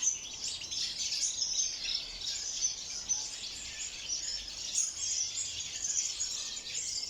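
Many small aviary birds chirping at once: a dense, continuous chorus of high, quick chirps.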